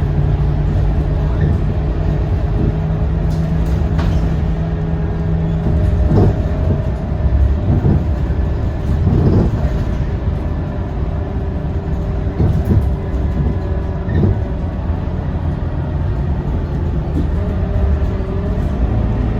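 Scania K230UB Euro V single-deck bus's five-cylinder diesel engine running as the bus drives, heard from inside the cabin. It holds a steady hum, with a few knocks and rattles from the bus body in the middle stretch.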